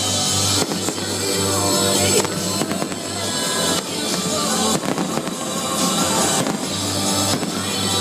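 Fireworks crackling and bursting over loud show music with a steady bass line, the crackle swelling in waves every second or two.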